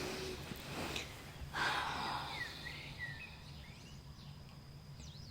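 Dawn chorus of songbirds giving scattered short chirps and whistled notes over a steady low hum. A brief breathy rush of noise, like a sigh, comes about a second and a half in and is the loudest sound.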